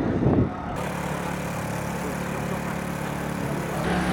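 Motorcycle engine running at a steady idle, after a brief loud burst at the very start.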